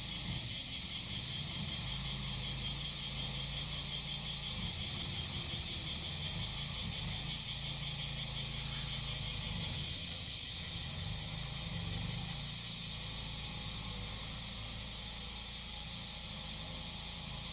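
Cicadas singing in a high pulsing chorus, about four or five pulses a second, that settles into a steadier drone about ten seconds in. Underneath, the small engine of a grass-cutting machine runs with a low hum.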